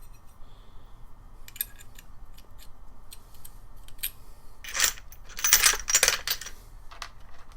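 Small metal parts clinking and rattling as they are handled: scattered light clicks, then a few louder rattles about five to six seconds in.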